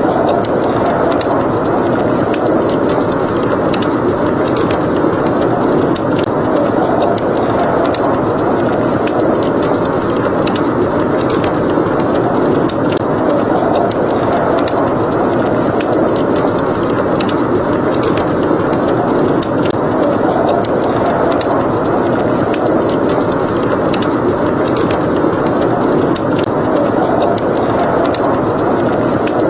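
Wood fire crackling with frequent sharp pops over a steady, loud rush of blizzard wind that swells and eases slowly.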